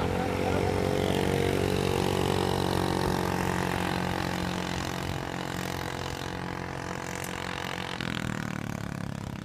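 A motor running steadily, its pitch easing down slightly, with a change in its sound about eight seconds in.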